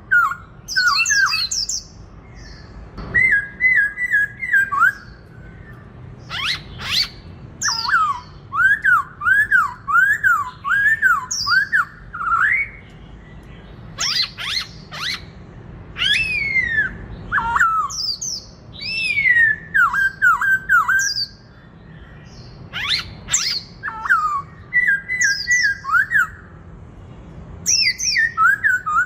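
Black-throated laughingthrush singing its loud fighting song. Phrases of clear whistled notes, each a quick falling-then-rising slur repeated several times in a row, are mixed with sharp high calls and broken by short pauses.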